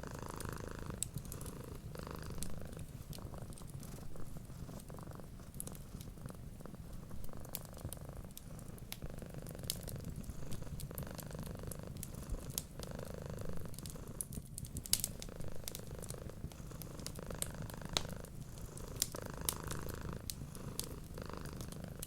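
Domestic cat purring steadily, rising and falling every second or two, with scattered sharp crackles and pops of a wood fire.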